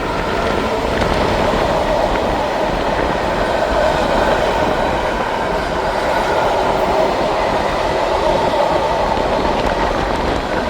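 A passing train: a steady noise of wheels running on the rails that swells over the first couple of seconds and then holds.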